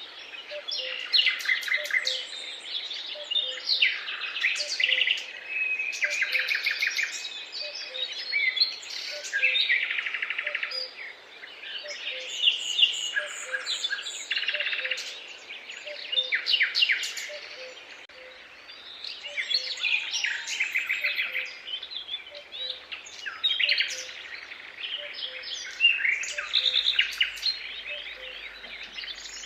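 Several songbirds singing at once, with overlapping phrases of rapid trills and chirps coming and going.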